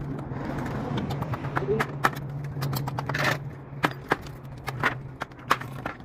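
Irregular sharp knocks and clicks over a steady low hum, with a short rush of noise about three seconds in.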